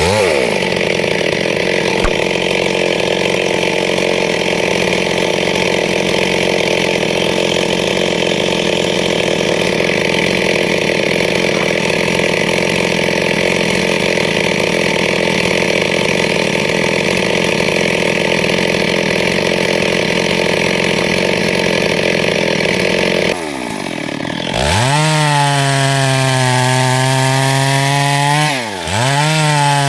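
Chainsaw at full throttle cutting steadily lengthwise through wood to saw boards. Near the end the cut stops, and the saw revs freely with a clearer, higher engine pitch. Its revs dip and climb again once, shortly before the end.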